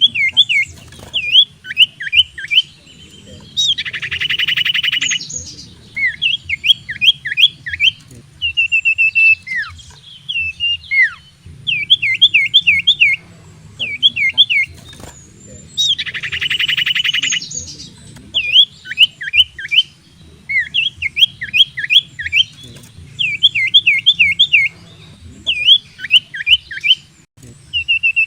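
Common iora (cipoh) in full song: quick runs of sharp, falling whistled notes, three to five at a time. The runs are broken twice by a long buzzy rasp, about four seconds in and again about sixteen seconds in.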